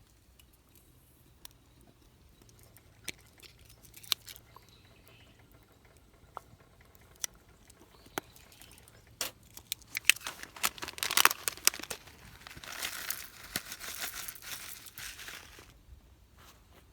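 Scattered light clicks and handling noises, then about ten seconds in a dense spell of crinkling and crumpling, like packaging or foil being handled, that dies away near the end.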